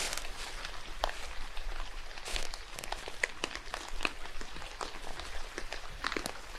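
Rain falling in a forest: a steady hiss with many irregular sharp drop ticks, as drops strike leaves and other surfaces.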